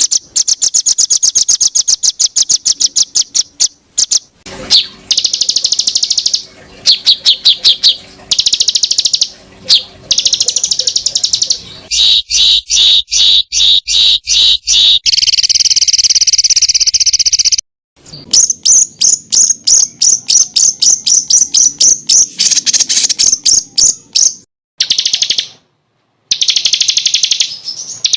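A songbird singing fast, dense runs of sharp, high repeated notes, about ten a second. This is the rapid 'tembakan' (shot-like) song used as a master recording to teach competition songbirds. The phrases stop and start abruptly, with a few short silent gaps.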